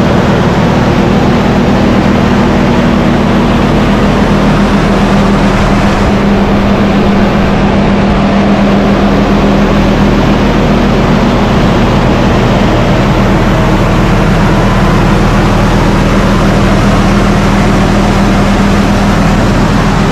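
Jeep Wrangler's newly installed 4.7 L stroker straight-six running steadily, an even loud hum with no change in revs, during camshaft break-in.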